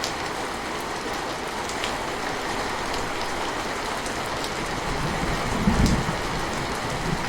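Steady rain falling, an even hiss with scattered drop ticks, and a brief low rumble of thunder about six seconds in.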